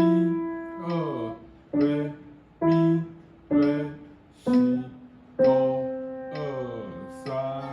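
Piano played slowly, about nine struck notes in a steady pulse of roughly one a second, bass and treble notes sounding together, each ringing and dying away before the next. A simple beginner's practice piece.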